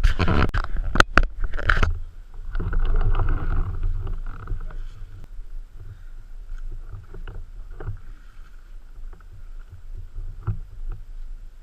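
Low rumbling noise, like wind or handling on the microphone. A loud rustling burst comes at the start, then sharp clicks a second or so in and a few fainter ones later.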